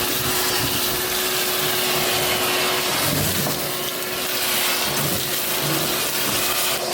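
Vacuum cleaner running steadily with a constant motor whine, vacuuming a bare floor.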